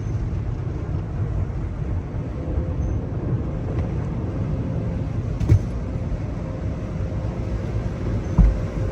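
Older Hanna mini tunnel car wash equipment running: a steady low rumble, with a dull knock about five and a half seconds in and a louder one near the end.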